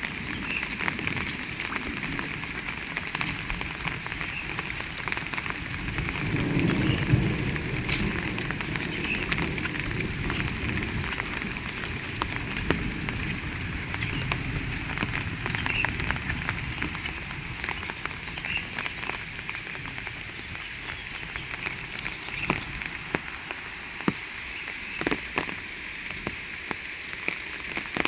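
Heavy rain falling steadily, with many sharp drop hits close by. A low rumble swells from about six to eight seconds in.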